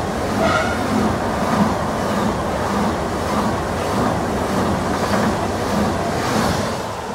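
A Swiss SBB electric passenger train running through the station close by at speed, with a steady rumble of wheels on rail and a rhythmic clatter as the wheelsets pass. The noise dies away near the end as the last cars go by.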